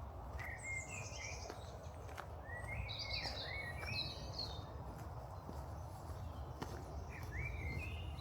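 A small songbird singing short, quick phrases of chirps and trills, three times, over a steady low outdoor rumble.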